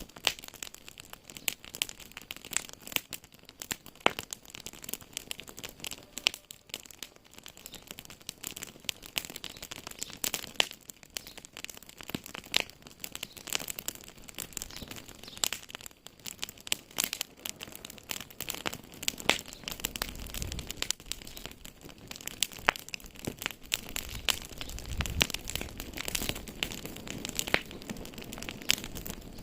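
Wood fire crackling in a fireplace: irregular sharp pops and snaps over a soft hiss, with a low rumble of the flames swelling in the second half.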